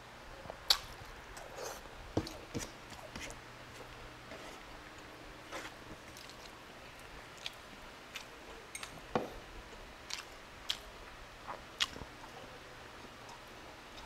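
Close-up eating sounds of a man chewing a mouthful of stewed beef and rice, with irregular wet smacks and clicks of the mouth.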